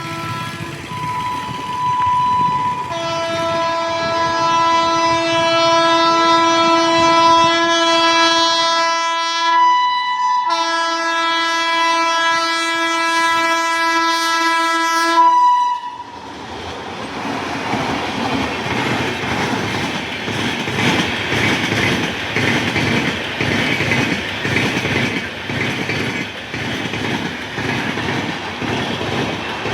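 Indian Railways locomotive horn sounding a long multi-tone blast, broken briefly about ten seconds in and resumed until about fifteen seconds. Then the train runs past, its wheels clattering over the rail joints in a steady rhythm.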